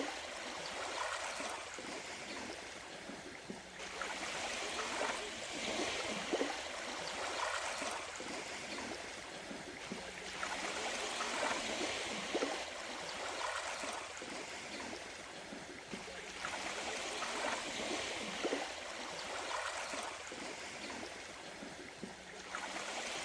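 Water sloshing and gurgling, swelling and fading every few seconds.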